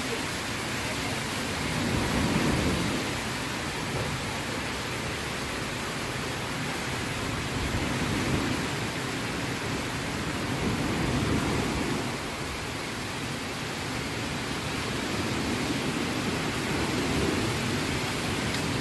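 Steady rain falling, an even hiss that swells a little several times.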